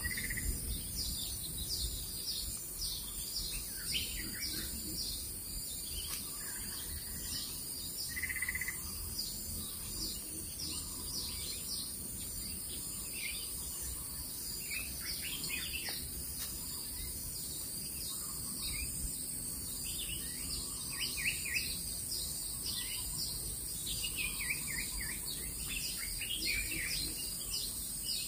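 Rapid high bird chirps, short downward sweeps repeated in quick clusters, over a steady high insect hum.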